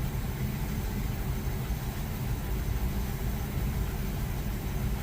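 LG clothes dryer running, its drum turning with a steady low rumble.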